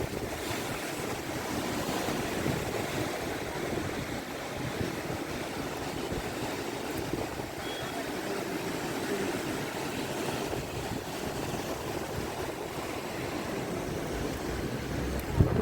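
Monsoon sea surf and wind: a steady, unbroken wash of waves with wind over it, and a sudden louder burst right at the end.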